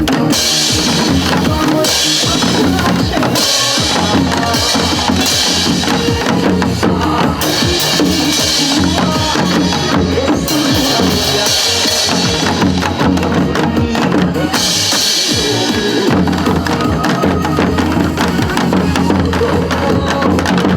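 Group janggu drumming played along to a recorded trot song with a steady beat.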